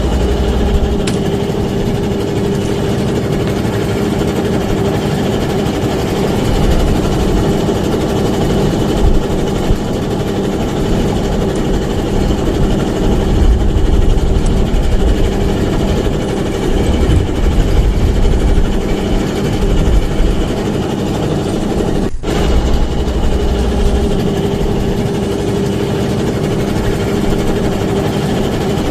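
A small fishing boat's engine running steadily, with low rumbling underneath and a momentary dropout about 22 seconds in.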